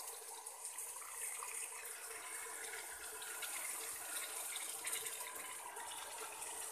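Steady sizzling hiss of masala frying in an aluminium pot on a gas stove, fresh fenugreek (methi) leaves just added, with faint crackles through it.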